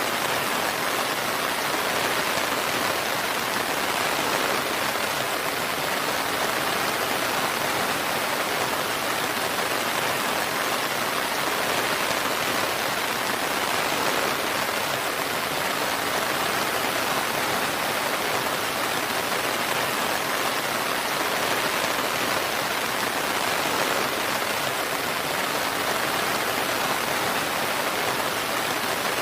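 Steady, even rain falling. It is a dense, unbroken hiss with no thunder or separate drops standing out.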